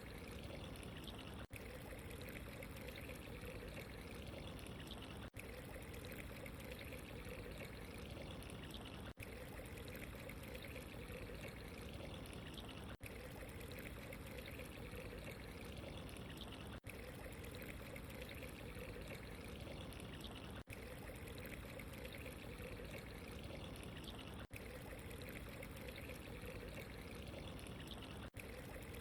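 Steady running, trickling water with an even rush, cut by a very brief dropout about every four seconds.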